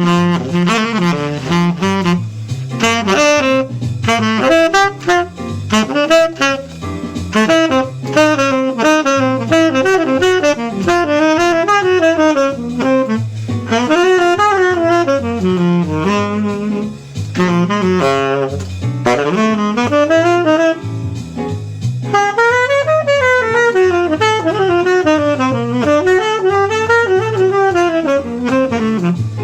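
Jazz saxophone solo with fast runs sweeping up and down in pitch, over a rhythm-section backing with a moving bass line.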